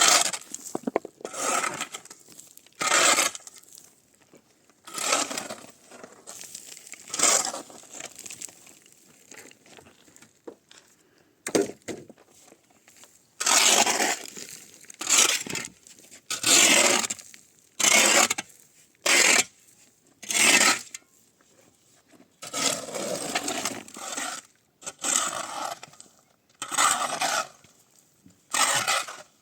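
A long series of separate scraping strokes, each about half a second to a second long, coming irregularly with short gaps, more closely spaced in the second half; the sound of hand work scraping or rubbing against wood and rough material.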